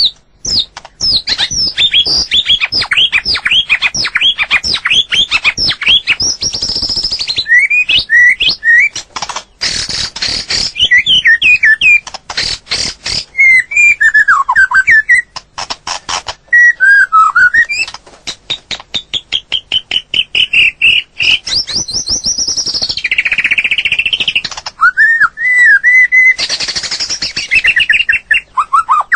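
White-rumped shama singing loudly and continuously: quick runs of sweeping whistled notes, mixed with several fast rattling, chattering passages and a few lower fluty phrases.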